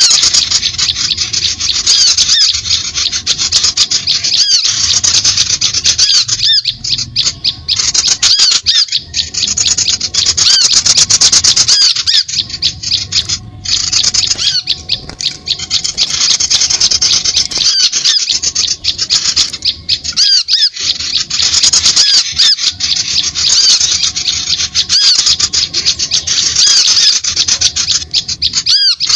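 A dense chorus of small songbirds chirping and squeaking in rapid, overlapping high notes, with brief lulls every few seconds. This is a bird-lure recording, meant to draw wild birds in.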